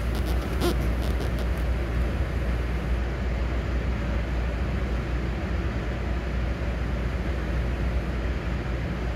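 Steady low rumble inside a MARC commuter train's passenger car, with a few short clicks in the first second and a half.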